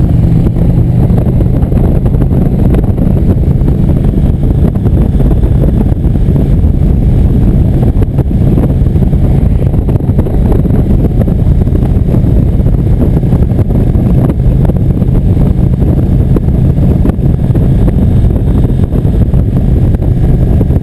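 Motorcycle engine running steadily on the road, with loud wind noise on the microphone, all in a dense low rumble that holds the same level throughout.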